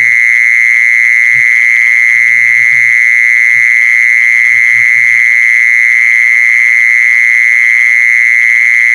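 Loud, continuous high-pitched insect call: a steady, shrill buzzing tone that holds at one pitch without a break.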